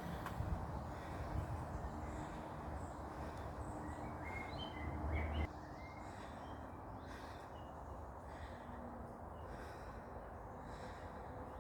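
Birds chirping faintly in short calls in the woodland, over a low rumble of wind or handling noise on the microphone that drops away suddenly about halfway through.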